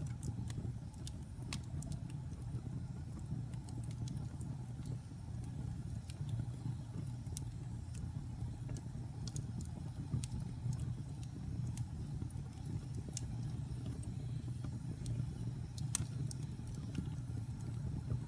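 Wood fire burning in a fireplace: a steady low rumble of flames with scattered crackles and pops, the sharpest pop about sixteen seconds in.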